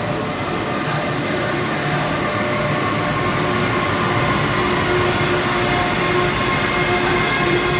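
Italo AGV 575 high-speed electric train running slowly past along the platform: a steady rumble of wheels on rail with a steady whine of several tones over it, growing slightly louder.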